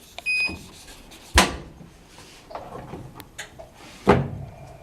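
A short electronic beep from the washer's control panel, then two sharp knocks about three seconds apart.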